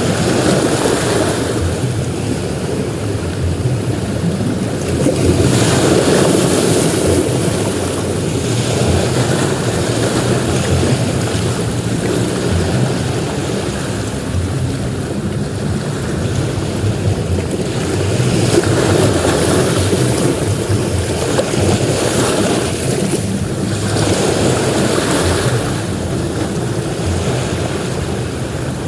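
Sea waves breaking and washing up a beach: a continuous rush of surf that swells louder and falls back as each wave comes in.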